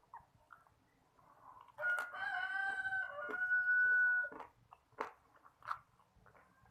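A rooster crowing once, one long call of about two and a half seconds starting around two seconds in. Faint clicks of chewing are scattered around it.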